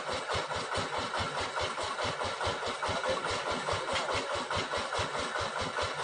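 An engine running steadily at idle with a slow, even chug of about seven pulses a second.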